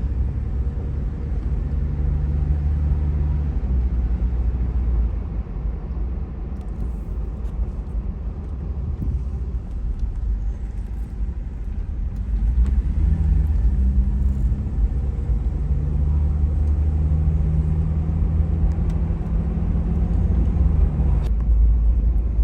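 Cabin sound of a 1994 Toyota Land Cruiser FZJ80 on the move: the 4.5-litre inline-six engine running under a steady road rumble. The engine note changes pitch several times as the truck accelerates and eases off.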